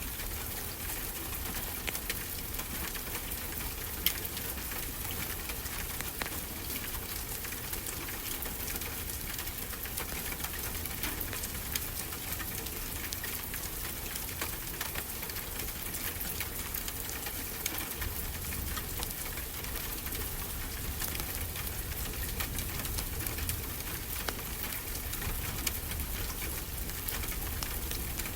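Wood fire crackling in a fireplace with frequent small pops, and a sharper pop about four seconds in, over a steady hiss and low rumble.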